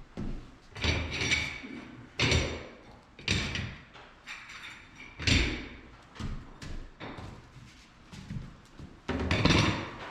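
Irregular knocks, clacks and short scrapes of ceramic tile and tools being handled during tile setting, about one a second, with a longer scraping clatter near the end.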